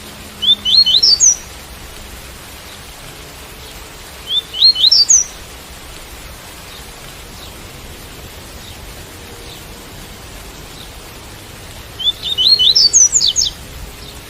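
Double-collared seedeater (coleiro) singing its 'tui-tui' song: three short phrases of quick rising whistled notes, about a second each, the last one longer. A steady hiss of rain runs underneath.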